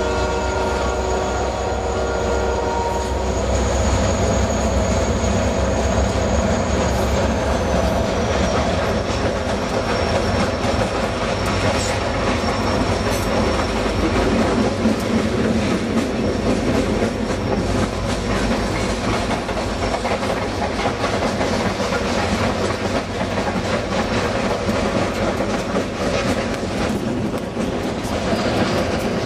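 Guilford freight train passing close by: a locomotive horn chord trails off in the first few seconds, then the freight cars keep rolling past with a steady rumble and clickety-clack of wheels over rail joints, and a thin high wheel squeal.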